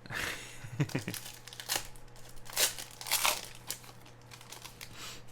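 Foil wrapper of a sports card pack crinkling and being torn open, in several sharp rustling bursts.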